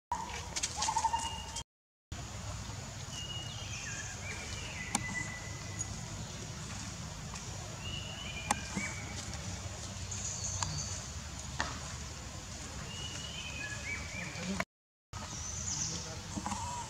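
Outdoor forest ambience with a bird calling in short falling phrases every few seconds, a few faint ticks, and a brief higher call just after the start. The sound drops out to silence twice for a moment.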